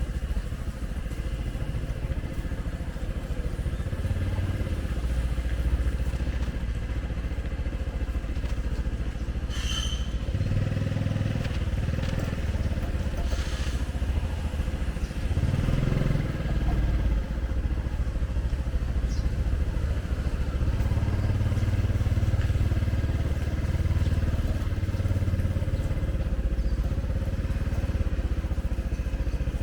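Steady low rumble of a running motor vehicle, swelling and easing, with a couple of brief higher clatters about ten and thirteen seconds in.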